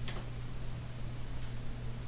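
A steady low hum over background hiss, with a brief sharp click at the start and a fainter click about one and a half seconds in.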